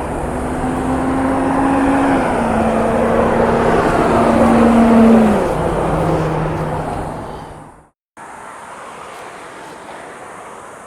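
A motor vehicle passing close on the road, its engine note dropping in steps as it goes by, loudest about five seconds in and then fading. The sound cuts out briefly about eight seconds in and gives way to quieter steady traffic noise.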